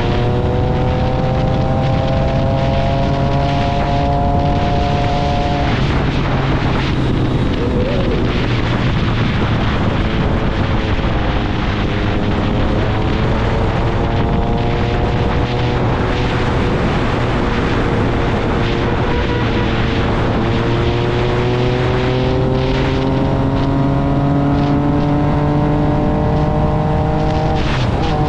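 Triumph Speed Triple 1050's inline three-cylinder engine through an SC Project exhaust, pulling under load on the move: the pitch climbs slowly through the revs, eases off about six seconds in, then climbs again over the rest. Steady wind rush runs under it.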